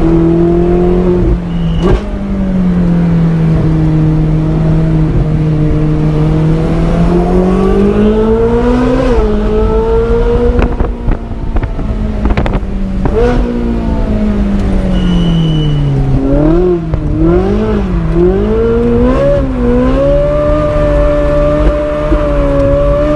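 Car engine revving loudly under sustained throttle, its pitch swelling and falling, then swinging up and down three times in quick succession before holding steady near the end. A few sharp clicks or pops sound over it.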